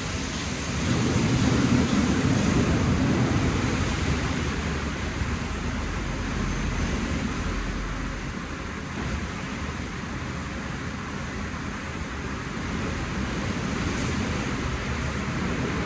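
WashTec SoftCare Pro rollover car wash in its shampoo wash: rotating SofTecs brushes and water spray working over a car, with the 16-bar high-pressure wheel washer. A steady rushing and rumbling that swells about a second in and eases off a little past the middle.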